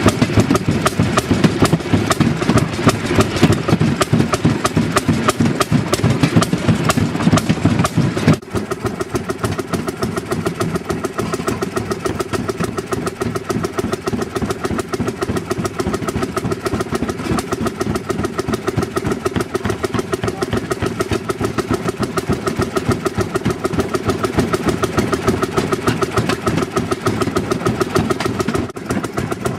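Railroad motor car (speeder) engines running with a fast, even firing beat as the cars travel along the track. The sound drops in level about eight seconds in and then runs on steadily.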